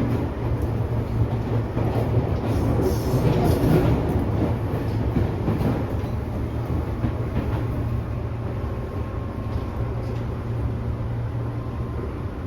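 Tobu 10000 series electric train running, heard from inside motor car MoHa 13003: a steady low rumble of wheels, motors and car body, swelling a little about three seconds in. A faint steady whine sits above the rumble in the second half.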